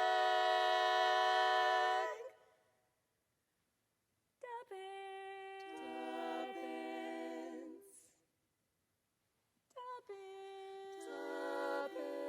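Women's barbershop quartet singing a cappella in four-part close harmony. A held chord ends about two seconds in, and after two short silences two more sustained sung phrases follow.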